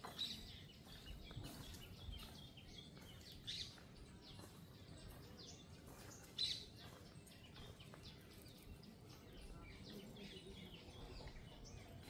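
Faint outdoor ambience with scattered short, high bird chirps; three louder chirps stand out a few seconds apart.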